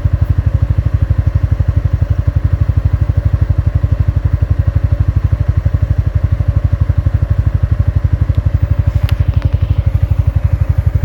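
A vehicle engine running steadily at idle, with an even, rapid pulsing beat and a few faint clicks near the end.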